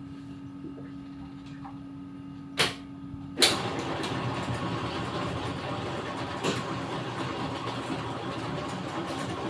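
A steady machine hum, a sharp click about two and a half seconds in, then a motor or engine starts abruptly about a second later and keeps running with a dense, steady noise.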